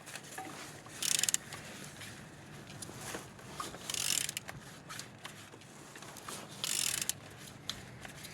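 Opel Z13DTH 1.3 CDTI diesel engine being turned over by hand with a tool: mechanical clicking and three louder rasping bursts about three seconds apart. The engine turns freely, with compression on all cylinders.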